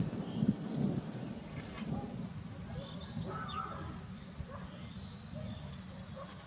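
A cricket chirping steadily in short, evenly spaced high pulses, about three a second, over a low rumble of wind.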